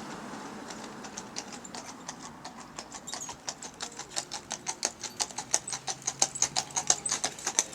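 Horses' hooves clip-clopping on the road, a fast even run of sharp knocks that grows steadily louder as the horses draw near.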